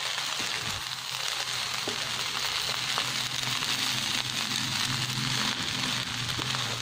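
Fried rice with shrimp and diced vegetables sizzling steadily in a wok over high heat as a wooden spatula stirs and tosses it, with a low steady hum underneath.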